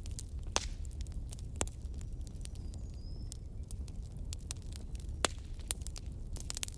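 Wood fire burning in a fireplace: a steady low rumble of flames with irregular crackles and a few louder pops, and a brief faint hiss-like whistle about three seconds in.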